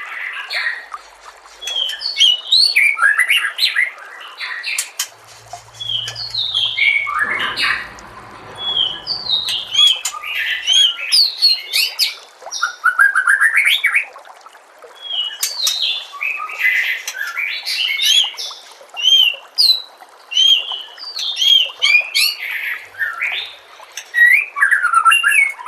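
White-rumped shama (murai batu) singing: rapid phrases of loud, varied whistles, chirps and trills with short pauses between them.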